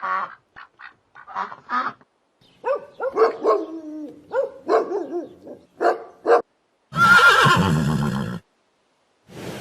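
Farm animal calls: a run of short pitched calls, then one long harsh call lasting about a second and a half, starting about seven seconds in.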